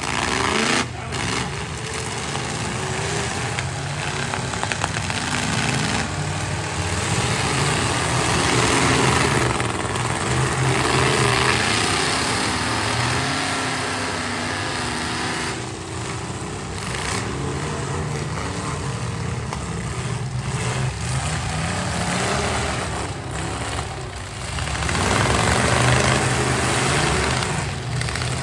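Several demolition derby trucks' engines running and revving hard, their pitch rising and falling, with occasional knocks.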